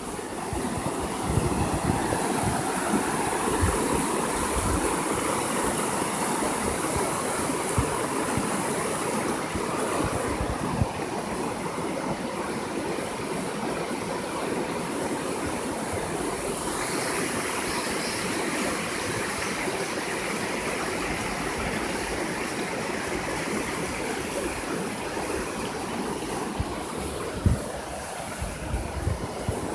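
A river stream running over rocks, with a steady rush and babble of water.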